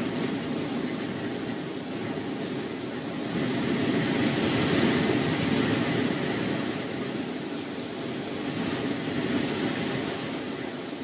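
Wind rushing over the microphone in a steady noise that gusts louder for a few seconds in the middle.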